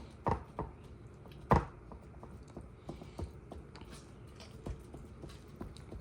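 Hands working raw ground meat into a muffin tin: a few soft, wet knocks and squishes, the loudest about a second and a half in, with lighter taps later.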